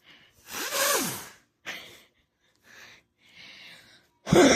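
A thrown hand-lit firework: a loud hiss with a falling tone about a second in, then two loud sharp bangs close together near the end.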